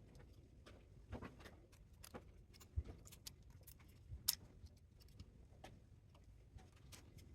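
Faint, irregular clicks and light knocks, with sharper ones about a second, three seconds and four seconds in, from tools and metal parts being handled while a spot welder is taken apart.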